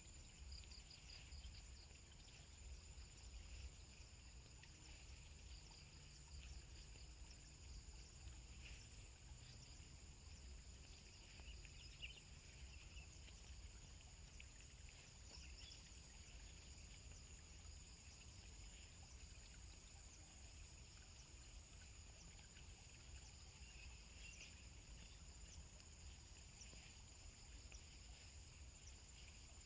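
Faint, steady chorus of insects, several shrill unbroken tones, with scattered short chirps and a low rumble underneath.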